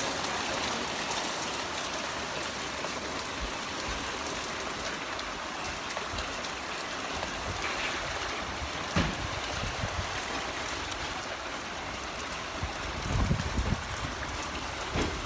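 Very heavy rain pouring down in a steady, dense hiss. A brief low thump about nine seconds in and a low rumble near the end sit under the rain.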